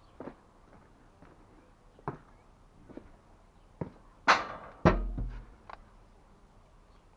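Scattered light knocks and taps from objects being handled. About four seconds in comes a louder, brief clatter, followed at once by a heavy thud.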